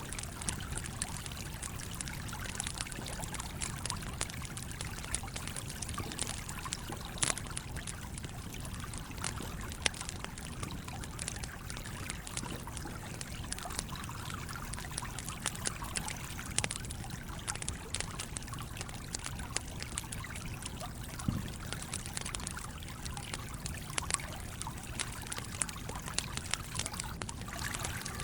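Campfire crackling with frequent sharp snaps, over the steady flow of a small stream.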